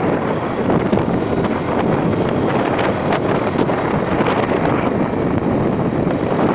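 Loud, steady wind buffeting the microphone during the ride.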